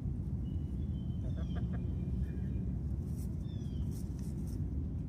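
A few faint, short, high chirps falling in pitch, from birds around a backyard chicken flock, over a steady low rumble.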